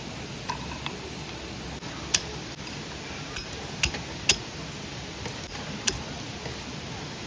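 Campfire cooking sounds: a handful of short, sharp clicks and clinks over a steady low hiss.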